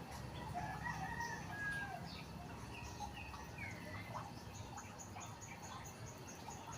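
Outdoor morning ambience of chickens clucking, with other birds calling in short chirps over a steady background hiss. In the second half a quick, even series of high-pitched chirps joins in.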